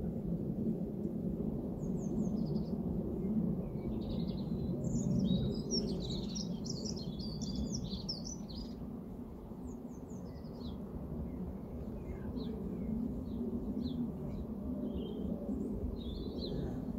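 Small birds chirping and singing, with a busy burst of song a few seconds in and then scattered calls, over steady low outdoor background noise.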